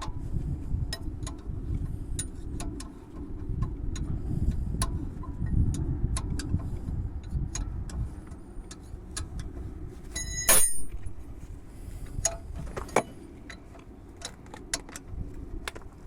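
Hand tools clicking and clinking on metal during rear brake work, in irregular single clicks, with one loud ringing metal clink about ten seconds in and a sharp knock a couple of seconds later, over a low steady rumble.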